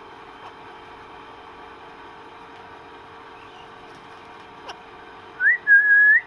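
Pet parrot whistling near the end: a short rising note, then a held clear whistle that lifts again at its close. Before it there is a single click over a faint steady background hum.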